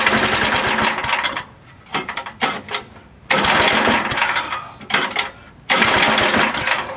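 A 7hp Tecumseh small engine being cranked over in three separate bursts: a long one, then two shorter ones, each a fast, even chugging. It turns over without catching and running.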